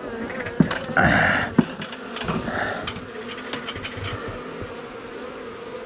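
Honey bees from an exposed wall colony buzzing in a steady hum, with a few sharp knocks and a loud rustle about a second in as the panel is handled.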